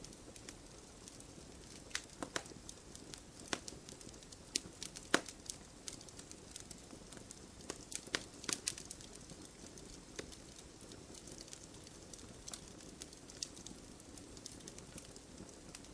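Wood fire crackling: irregular sharp pops and snaps of burning logs over a soft steady hiss, busiest in the middle, with one louder pop about five seconds in.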